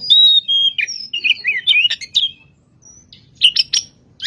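Oriental magpie-robin (kacer) singing in full song: a quick phrase of varied clear whistles mixed with harsh, scratchy notes, a short pause about two seconds in, then a few sharp notes near the end.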